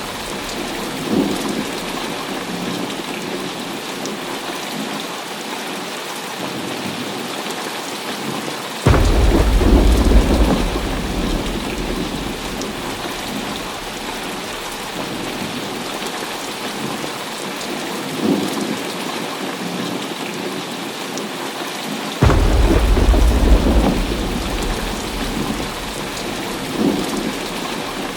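Steady heavy rain with two sudden thunderclaps, about nine seconds in and again some thirteen seconds later. Each is followed by a deep rumble that fades over a few seconds.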